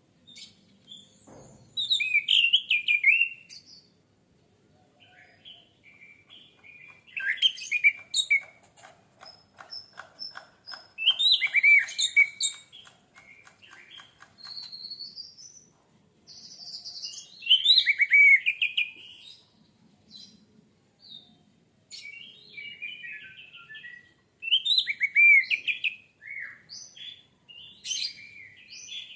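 Orange-headed thrush (anis merah) singing: loud phrases of varied whistled notes every few seconds, with a fast rattling series of notes between about eight and eleven seconds in.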